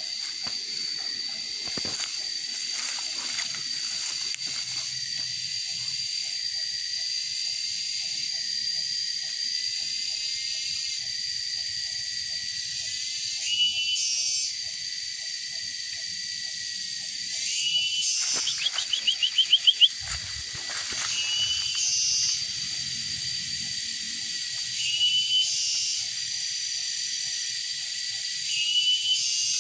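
Sooty-headed bulbul (kutilang) calling: short bubbly phrases repeated every three to four seconds, with a quick run of loud rapid notes near the middle. A steady high hiss with a thin constant tone runs underneath.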